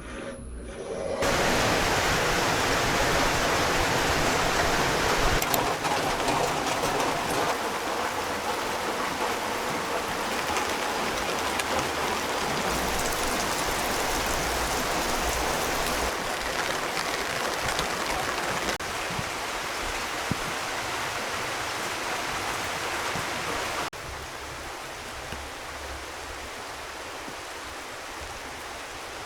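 Steady heavy rain falling, an even rushing hiss that drops to a lighter level about five seconds before the end.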